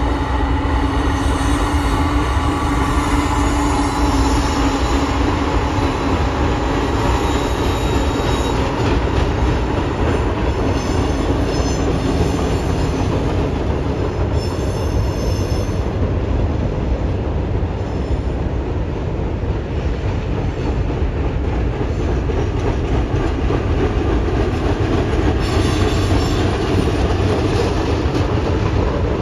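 Freight train rolling past close by: a steady heavy rumble of wheels on rail, with high-pitched wheel squeal now and then.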